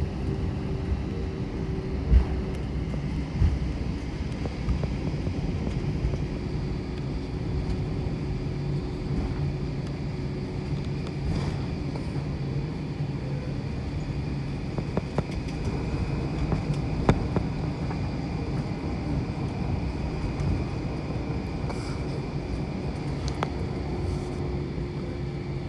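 Airbus A321 cabin noise on the ground after landing: a steady engine hum with low drones, broken by a few sharp knocks and rattles from the cabin.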